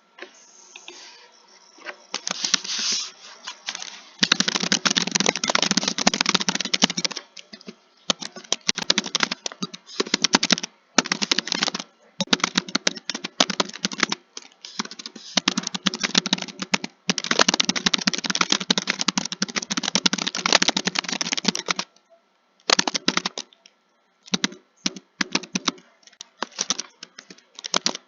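Computer keyboard typing: fast runs of key clicks lasting a few seconds each, broken by short pauses, with a longer stop a little after the middle and choppier bursts near the end.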